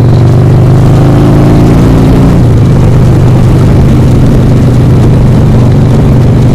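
Harley-Davidson Sportster 1200's air-cooled V-twin engine pulling the bike along the road, loud and distorted. The engine pitch climbs over the first two seconds, changes at about two and a half seconds in, then holds steady.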